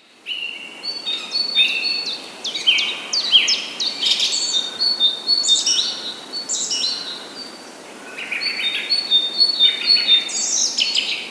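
Several small birds chirping rapidly with short, high, downward-sliding notes that overlap one another, in two bouts with a brief lull about seven seconds in.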